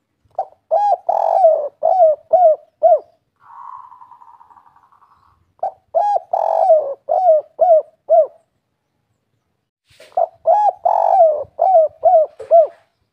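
Spotted dove (derkuku, tekukur) singing its 'kuk 3' song: three phrases of six or seven low coos each. A quieter buzzing rattle sounds between the first two phrases.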